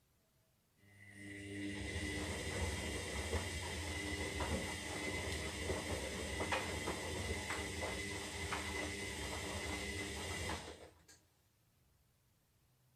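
Zanussi Lindo 300 washing machine's motor turning the drum in one wash tumble of about ten seconds. It is a steady hum with a high whine and small scattered clicks, starts about a second in and stops abruptly near the end.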